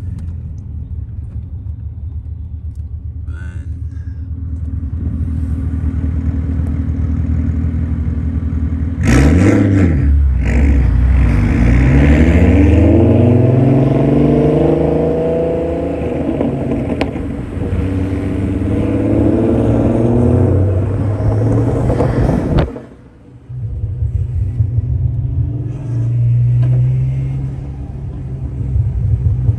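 Turbocharged car engine running steadily, then pulling hard under full throttle from about nine seconds in, its pitch climbing in repeated sweeps through the gears. The sound drops off sharply a little past twenty seconds, then the engine picks up again.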